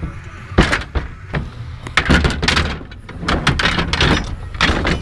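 Irregular clunks and rattles of objects being handled and knocked about, a dozen or so sharp knocks in quick clusters, over a low steady hum.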